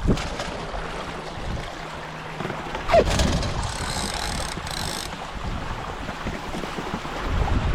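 Wind buffeting the microphone and water rushing past the hulls of a Hobie 16 catamaran under sail. A sudden thump comes about three seconds in, followed by a short high-pitched whir.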